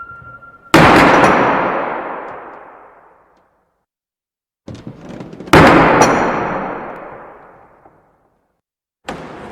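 Heavy wooden castle door slamming shut twice, each bang dying away in a long echo of two to three seconds. Before the second slam come a few lighter knocks and rattles, and that slam has a thin metallic ring from the door's ironwork or latch. A new door movement begins near the end.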